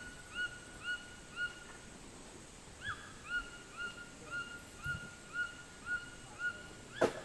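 A bird repeating a short, clear whistled note about twice a second, each note rising quickly then levelling off. The series pauses once about a second and a half in, then resumes. A single sharp knock comes near the end.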